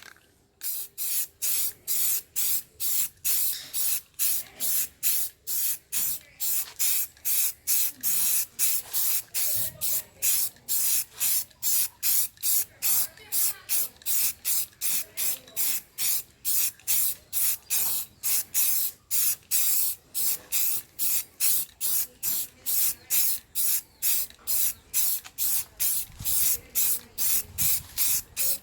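Primer being sprayed onto a sanded door panel in quick, short bursts of hiss, about two a second, each pass starting and stopping sharply.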